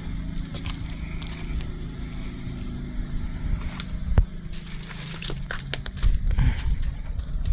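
Car running, a steady low rumble with scattered clicks and knocks over it.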